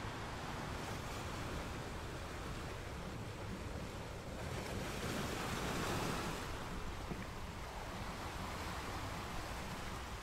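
Steady rushing water noise with no distinct events, swelling louder for about two seconds around the middle before settling back.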